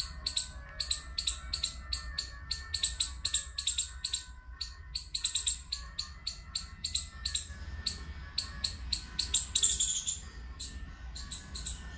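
Small birds chirping, a quick string of short high chirps several times a second with a denser flurry near the end, over a low steady hum.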